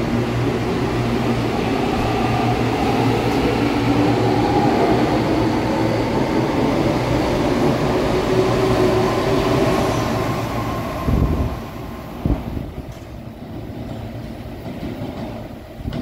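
CPTM electric commuter train running close past along the platform, wheels rumbling and traction motors whining, their tones rising slightly. About eleven seconds in it gives way to a quieter, more distant rumble of another train approaching, with a couple of thumps.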